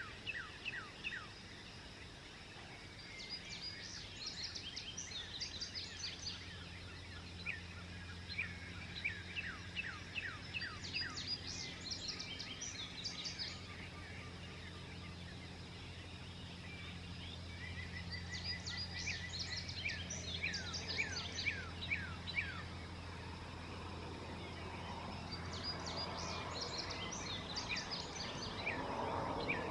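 Dawn birdsong: a songbird sings phrases of quick, sharply falling high notes, a new phrase about every eight seconds, with other birds chirping between phrases. A steady low hum runs underneath.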